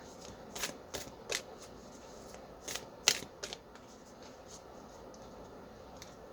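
A deck of oracle cards being shuffled by hand: scattered short snaps and slides of the cards, the sharpest about three seconds in.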